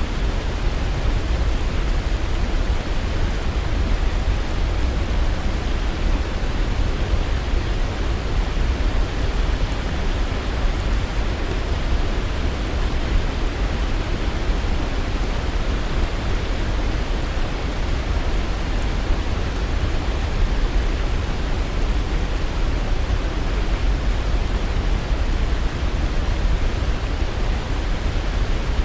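Waterfall's steady rushing roar of falling water, an even, unbroken noise heaviest in the deep low end.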